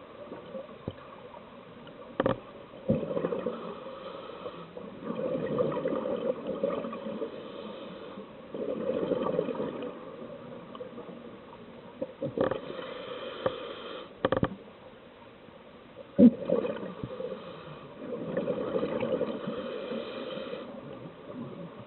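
Scuba diver breathing underwater through a regulator: exhaled bubbles gurgle in swells every few seconds, with a few sharp clicks between them.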